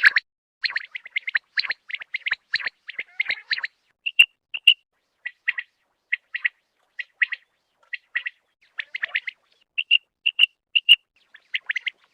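Common quail calling: a long run of short, sharp high notes, some single or paired, others in quick clusters, with brief gaps between.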